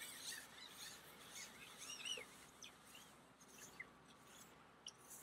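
Faint chirps of small birds: several short rising-and-falling calls in the first half, and a few soft clicks later.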